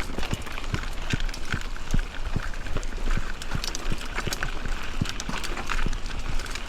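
Mountain bike riding over a rough forest trail: irregular knocks and rattles, several a second, as the bike jolts over bumps, over a steady rustle of the tyres on the ground and low rumble.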